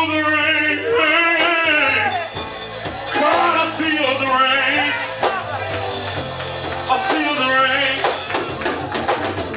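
Gospel worship music: a voice singing long, drawn-out wordless phrases over sustained low chords, with a tambourine shaking along.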